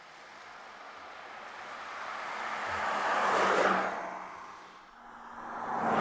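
Porsche Taycan driving past: a rushing swell that builds to a peak about three and a half seconds in and fades away, then a second pass rising near the end.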